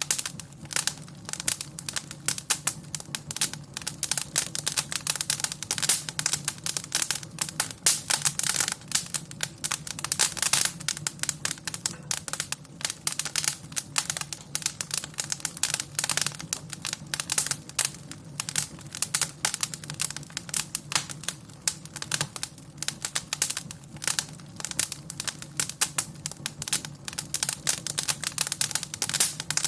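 Wood fire crackling and popping steadily, with dense irregular snaps over a low steady rumble of the flames.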